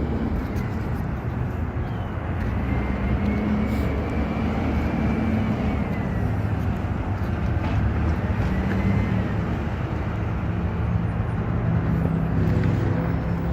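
Recycling garbage truck's engine running steadily, its pitch shifting up and down, with a faint high whine that rises and falls now and then.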